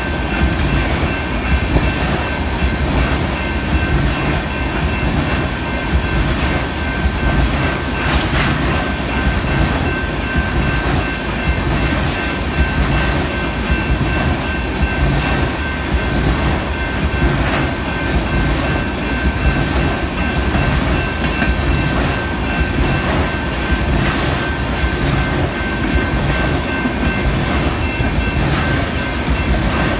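A train's railroad cars rolling past steadily at close range, wheels clicking over the rail joints, with a steady thin high whine above the rumble.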